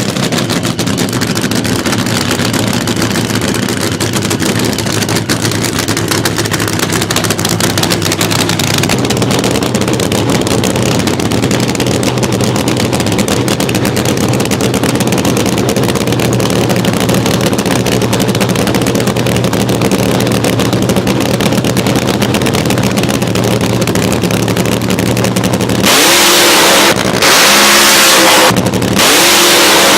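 Car engine running steadily at high speed. Near the end come three short loud stretches of revving, each rising in pitch and cutting off abruptly.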